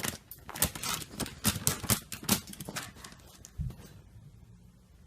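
Rapid, irregular clicking for about three seconds, then a single dull thump.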